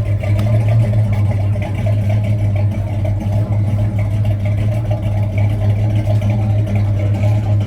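A car engine idling steadily, a deep even drone that holds without revving.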